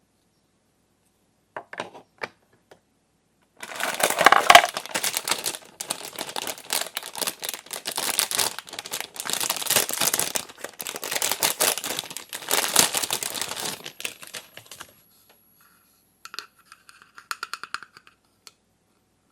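Plastic toy packaging crinkling and rustling as it is handled and pulled open, in dense crackly stretches for about eleven seconds, then a few light clicks of small plastic parts near the end.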